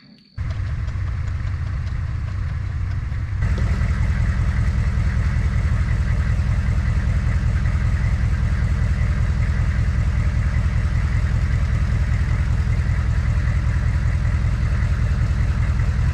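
An engine idling steadily with an even low pulse, starting abruptly and getting louder about three seconds in.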